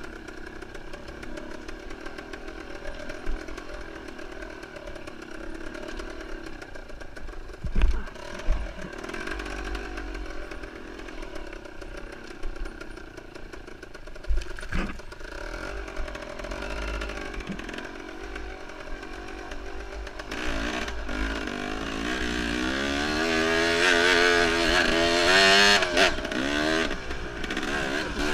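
Enduro motorcycle engine running at a steady pitch, with a few sharp knocks, then from about twenty seconds in getting louder and revving up and down repeatedly as the throttle is worked.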